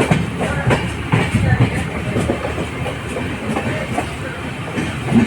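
LHB passenger coach running along the track: a steady rumble with irregular clicks of the wheels over rail joints.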